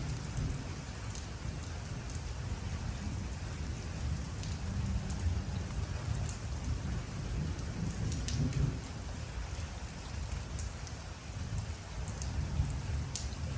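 Steady rain falling, with single drops ticking sharply here and there over a low rumble that swells and eases.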